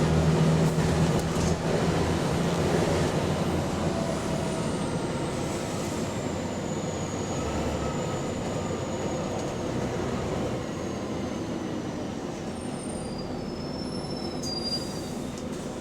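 A bus's engine and drivetrain running under way, heard on board, with the rasp of an exhaust leak in the noise. A thin high whine falls slowly in pitch as the bus slows, and the deep rumble drops away about halfway through.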